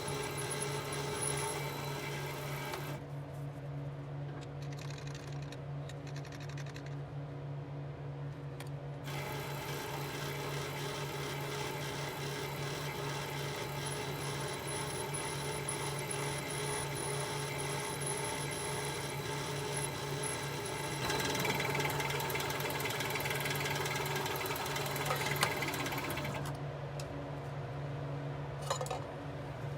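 An electric machine-tool motor running steadily, with a constant low hum. A couple of sharp clicks come near the end.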